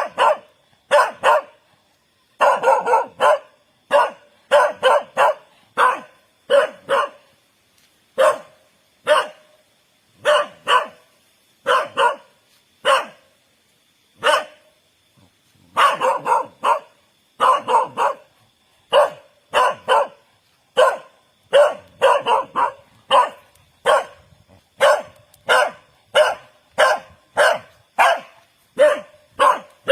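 A dog barking repeatedly in a long, steady series of short, sharp barks, about one to two a second, some coming in quick pairs, with a brief pause about halfway through.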